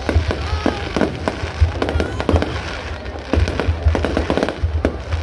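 Fireworks display going off: many sharp bangs and crackles in quick, irregular succession over deep booms.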